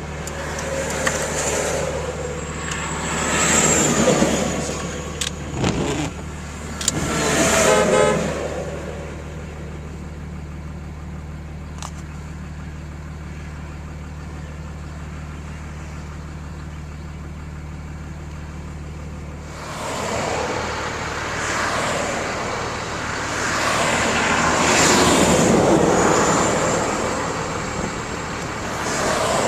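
Truck engine idling with a steady low hum while vehicles pass on the highway, each one swelling and fading; the idle hum stops about two-thirds of the way through.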